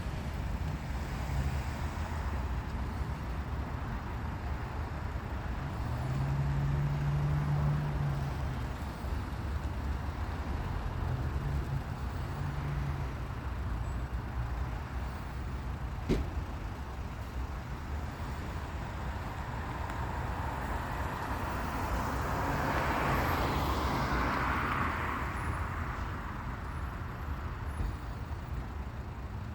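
Outdoor road traffic noise: a steady low rumble with an engine hum that comes and goes, a single sharp click about sixteen seconds in, and a louder swell of noise a little past twenty seconds in, as of a vehicle passing.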